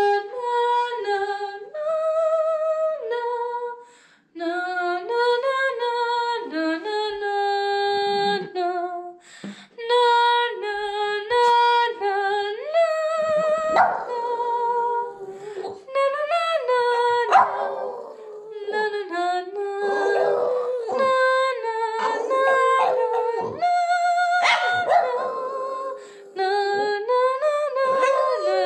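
Dogs howling along in long, wavering pitched notes, the "singing" howl dogs give to music or voices, held for a few seconds at a time with short breaks between.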